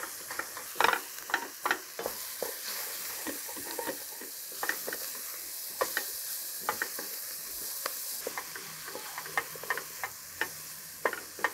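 Diced apple, carrots and onions with mugwort frying in goose fat in a stainless steel pot: a steady sizzle, with irregular clicks and scrapes of a wooden spatula stirring against the pot.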